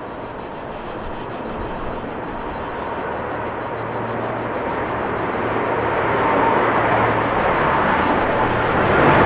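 A jet airliner's engines growing steadily louder as it approaches, a rushing noise that builds through the second half. Insects keep up a rapid pulsing chirp throughout.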